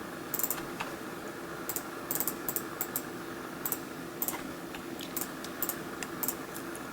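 Irregular clicking from a computer mouse and keyboard, sometimes two or three clicks close together, over a steady low hum.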